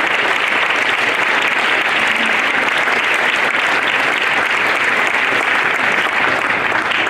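Audience of schoolchildren applauding steadily, a dense clapping that starts to die away right at the end.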